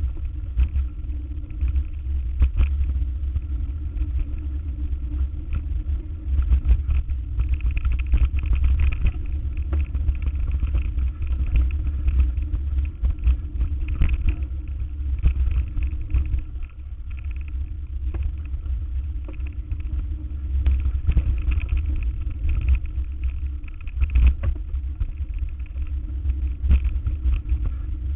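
Car driving: a steady low rumble with frequent short knocks and rattles.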